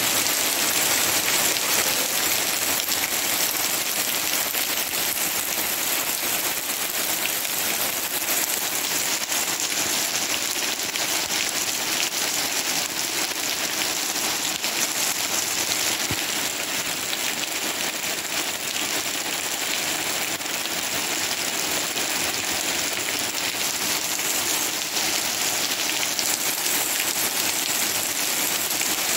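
Steady rain shower falling: an even, unbroken hiss of rain.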